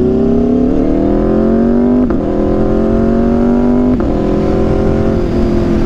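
Aprilia RSV4's V4 engine through an SC-Project CRT exhaust, accelerating on the road. The note climbs steadily, then drops sharply with an upshift about two seconds in, climbs again, and drops with a second upshift about two seconds later before holding steady.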